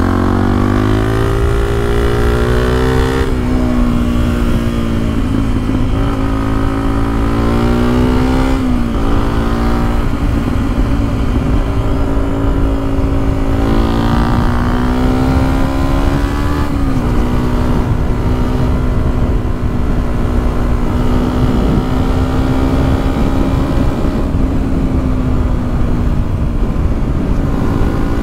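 Yamaha WR125X's 125 cc single-cylinder four-stroke engine through an aftermarket Exil half-line exhaust, under way: its pitch climbs and drops back sharply three times, then it runs at a steady pitch for the last ten seconds or so. A low wind rumble runs underneath.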